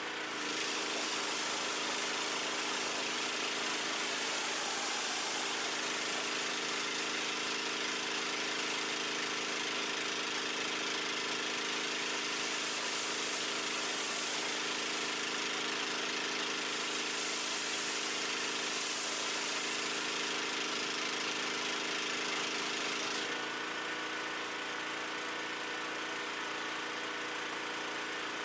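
Pressure washer running steadily, its engine humming under the loud hiss of the water spray. The spray starts just after the beginning and eases off about 23 seconds in while the engine keeps running.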